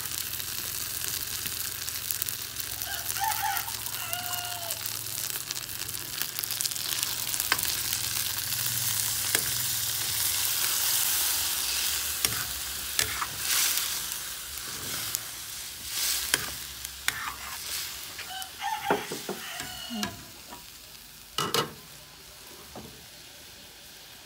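Tomato-and-ground-meat spaghetti sauce sizzling in a stainless steel wok and being stirred with a metal ladle. About halfway through, hot water is poured in and the sizzling dies down, with the ladle clinking against the pan. A rooster crows twice in the background.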